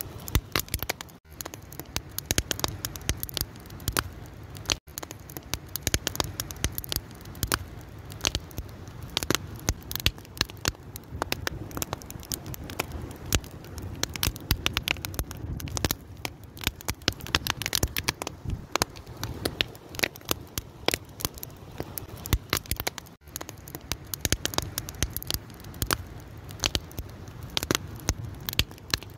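Wood fire crackling, with dense irregular sharp snaps and pops over a low rumble of burning.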